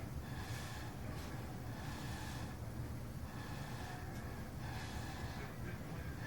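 Puffs of breath blown through a drinking straw to push wet resin into waves, coming in short bursts roughly once a second over a steady low hum.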